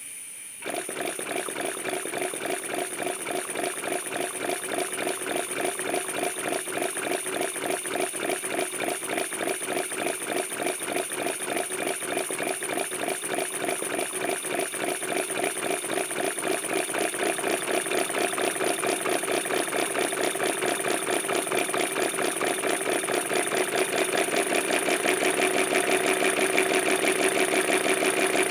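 Miniature four-stroke V-12 model engine, a scale replica of a WW2 fighter engine, starting up about a second in and then running steadily with a rapid, even beat, slowly getting louder.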